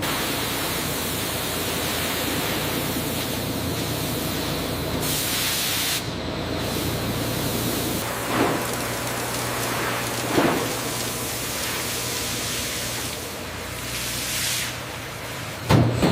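Steady hissing noise from food-processing machinery, broken by three short knocks, the loudest near the end.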